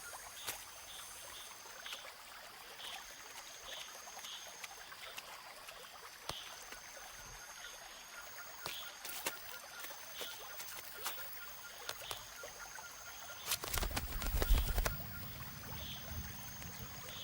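Rainforest ambience: a high, steady trill repeating in spells of a second or two, soft regular chirps and scattered sharp clicks. About fourteen seconds in, a louder low rushing burst lasts about a second.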